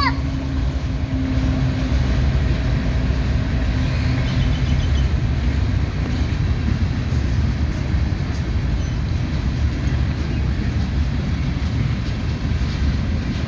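Ferrosur freight train rolling past, a steady low rumble of wheels on the rails with a few faint ticks near the end.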